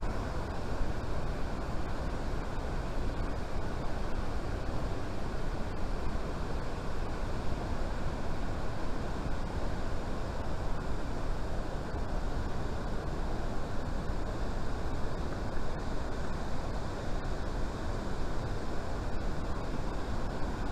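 Waterfall rushing: a steady, even wash of falling water that cuts in suddenly and holds without change.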